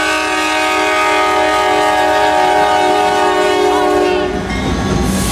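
Locomotive air horn sounding one long, loud chord of several notes, held for about four seconds and then stopping, leaving the low rumble of the train rolling past.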